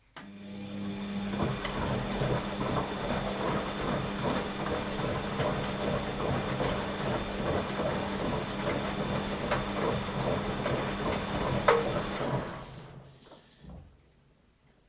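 Washing machine running mid-programme: its motor starts abruptly with a steady hum under dense rattling and churning noise. It stops about twelve and a half seconds in and dies away.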